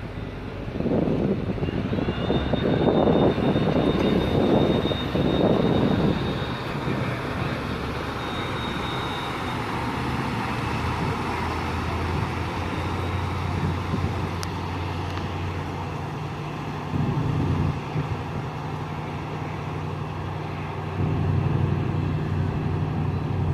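Ferry engines running steadily as the ferry moves away, a low hum with rushing noise surging in the first few seconds and a faint high whine for several seconds early on.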